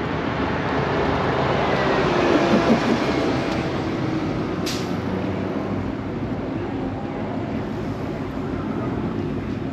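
Vehicle noise that swells to a peak about two to three seconds in and then slowly fades, like a vehicle driving past, with a sharp click near the five-second mark.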